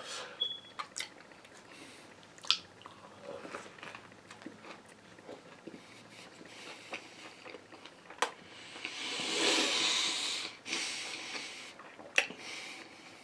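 Close-miked biting and chewing of a fried chicken sandwich, with scattered sharp mouth clicks. A longer, louder rush of breathy noise comes about nine seconds in.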